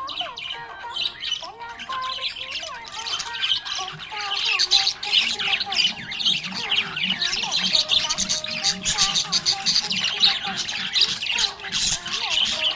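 Budgerigar chirping and chattering in a fast, continuous stream of short chirps, squawks and warbles, growing busier and louder about four seconds in.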